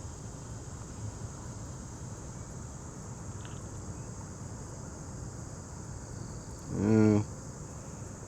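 Steady high-pitched chorus of insects over a low outdoor rumble. About seven seconds in, a brief loud low-pitched tone lasting about half a second cuts across it.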